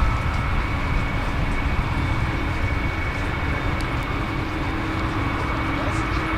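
Boeing 737-800 airliner's CFM56-7B turbofan engines during landing: a steady jet rumble with a held high whine.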